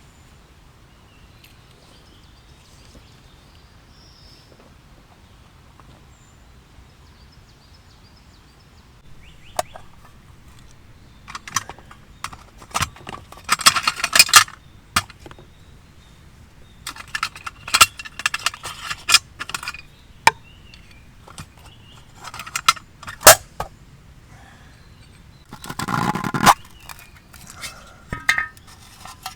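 Metal cookware being handled: after a quiet stretch, a run of sharp clinks and knocks with short ringing, starting about ten seconds in and coming in clusters.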